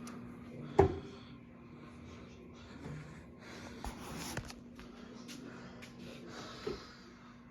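Scattered handling knocks and clicks, one sharp knock about a second in and fainter ones later, over a faint steady hum; no vacuum motor is running.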